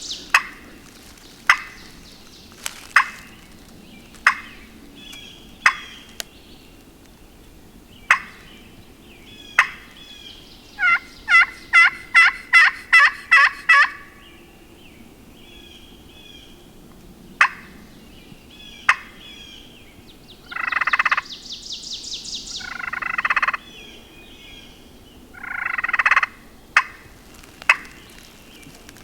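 Hunter's turkey call imitating a hen: sharp single clucks spaced about a second and a half apart, a fast run of about ten yelps in the middle, then three longer raspy scratching bursts later on. Faint songbird chirps in between.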